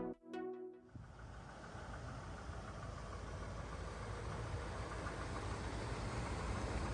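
The 1976 Cadillac Eldorado's 500 cubic-inch V8 idling steadily, after the last notes of intro music end about a second in.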